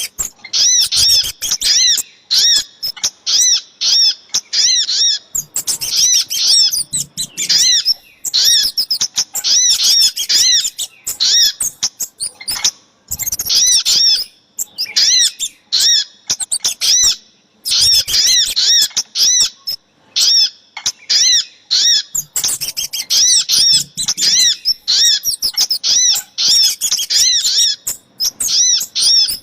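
Bird-lure recording of sogok ontong and kemade calls: rapid series of high, sharp up-and-down chirps, several a second, in bursts broken by short pauses.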